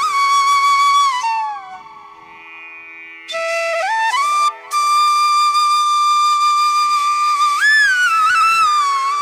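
Background music: a solo flute melody of long held notes with slides between pitches, over a steady drone. The tune falls away and goes quiet about two seconds in, then comes back rising in steps to a long sustained note, with a slide up and back near the end.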